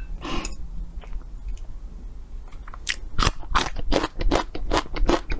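Close-miked mouth sounds of eating: chewing and biting with sharp, wet clicks and smacks. They are sparse at first and come thick and fast from about two and a half seconds in.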